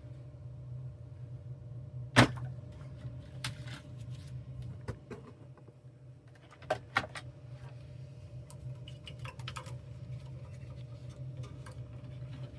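Scattered clicks and knocks from handling furnace parts and tools during an inducer-motor replacement, over a steady low hum. The loudest is a sharp knock about two seconds in, and two more come close together about seven seconds in.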